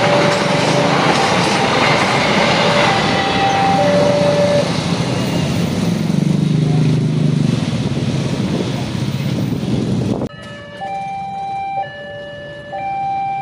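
A passenger train rolls past a level crossing with a loud rush of wheels and coaches, fading away over the first several seconds, while the crossing's warning alarm sounds two alternating tones. About ten seconds in, the sound cuts to the crossing warning alarm alone: its two tones alternate about once a second, with higher tones stepping above them.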